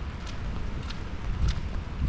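Footsteps on wet pavement, a sharp step about every half second, over a steady low rumble of wind on the microphone.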